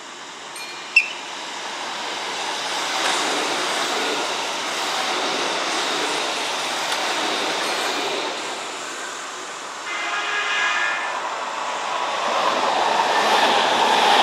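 Kintetsu electric train running along the tracks, its rumble building and falling back, then rising again with a steady whine near the end. A short sharp sound comes about a second in.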